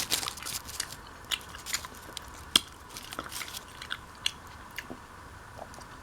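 A person chewing and biting into a Spicy Italian sub sandwich, with irregular close-up crunching and wet mouth clicks, and one sharper crunch about two and a half seconds in.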